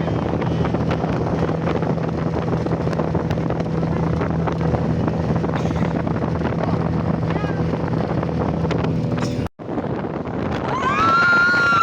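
Motorboat engine running steadily under wind on the microphone and the rush of water. The sound cuts off abruptly about nine and a half seconds in, and a singing voice comes in near the end.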